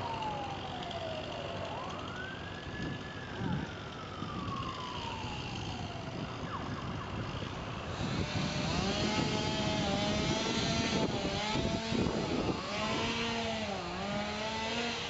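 Emergency vehicle siren wailing, its pitch sliding slowly down and up over a few seconds at a time. It grows louder about halfway through, with a wavering, layered tone.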